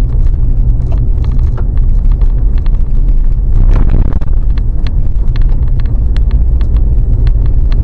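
Truck driving, heard from inside the cab: a steady low rumble from engine and road, with many small clicks and rattles.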